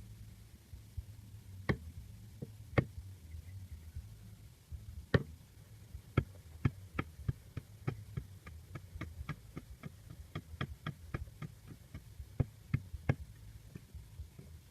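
A series of sharp, irregular taps or knocks, a few at first and then coming about two to three a second for several seconds, over a low steady hum.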